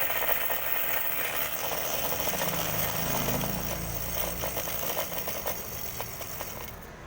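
Small DC motor spinning a wire that flicks against a strip of cut drink can, making a fast metallic rattle built to imitate a diesel engine's clatter. It starts abruptly and cuts off near the end.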